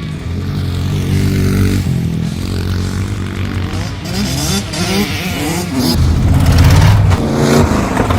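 Competition truck engine running hard and revving, its pitch rising and falling repeatedly, and growing louder near the end.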